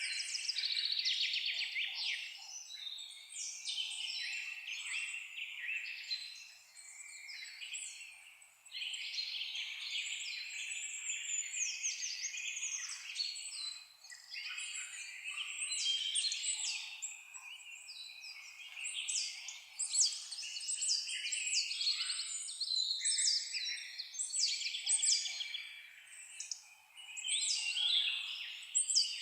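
A chorus of many songbirds singing and calling at once, a dense overlap of high chirps and quick trills that swells and eases every few seconds.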